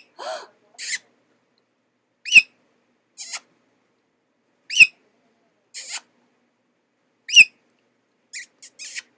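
A conure calling: four loud, sharp, high chirps spaced about two and a half seconds apart, each followed by a shorter, fainter raspy squawk.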